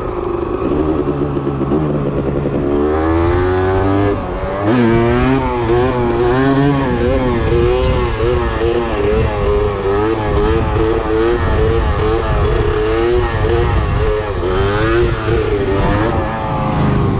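A 125 cc enduro motorcycle engine running hard, its pitch rising and falling over and over with the throttle. It gets louder about three seconds in and again just before five seconds.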